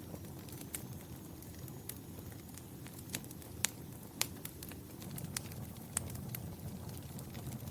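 Wood fire burning in a fireplace: a low, steady rumble of flames with sharp crackles and pops scattered through it, the two loudest pops near the middle.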